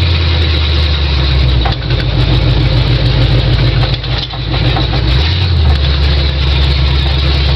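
Ford 351 Windsor V8 running through open headers while the pickup is driven, a loud steady drone whose pitch shifts about two seconds in and again around four to five seconds.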